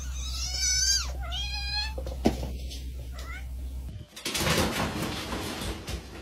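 A cat meowing twice, two drawn-out wavering meows, the first falling in pitch at its end. About four seconds in the sound cuts to a stretch of noisy hiss.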